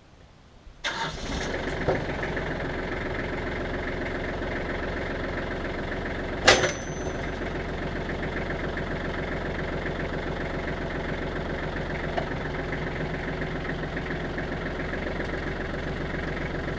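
Farm tractor's engine starts about a second in and then runs steadily at idle. A single sharp clank with a brief ring about six and a half seconds in is the loudest sound.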